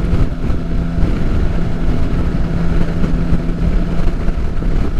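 Motorcycle at a steady highway cruise: the engine drones at an unchanging pitch under a constant rumble of wind and road noise.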